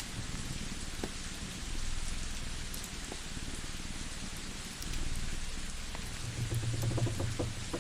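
Layered ambience: a steady rain hiss with scattered small wood-fire crackles over a low, pulsing cat purr, which swells louder about six seconds in.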